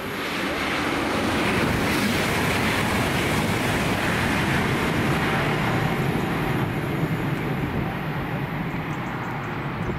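A train running past on the East Coast Main Line: a steady rush of wheel and rail noise that swells within the first second and eases slightly near the end.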